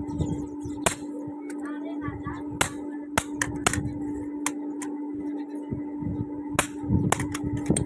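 Hammer blows on metal at a blacksmith's anvil: about seven sharp strikes at irregular intervals, over a steady low hum.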